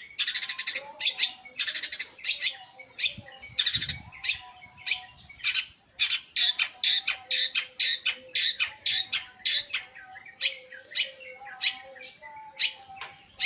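Long-tailed shrike (pentet) singing without pause: a rapid run of sharp, high chirps and short buzzy trills, about two to three a second, over fainter lower whistles.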